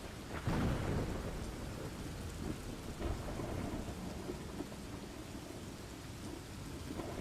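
Steady rain falling during a thunderstorm, with low rolling thunder underneath and a louder peal of thunder about half a second in.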